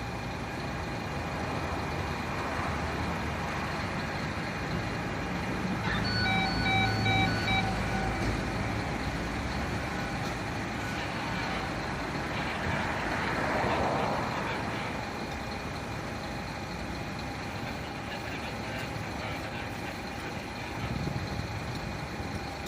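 Fire truck engine running steadily, with a short run of electronic warning beeps about six seconds in and a hissing swell about halfway through.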